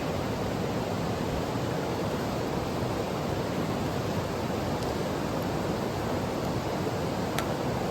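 Mountain stream rushing steadily, an even wash of water noise, with one faint tick near the end.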